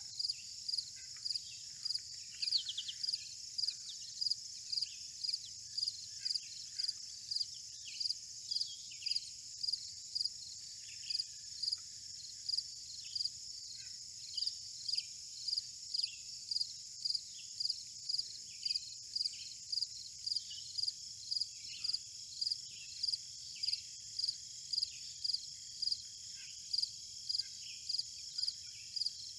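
Insect chorus in a field: a steady high drone with a regular chirp repeating about every 0.7 seconds. Short bird chirps are scattered through it.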